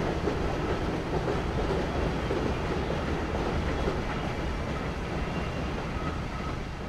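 Passenger train crossing a steel girder bridge: a steady rumble and clatter of wheels on rails, gradually fading as the last coaches and the electric locomotive at the rear pass by.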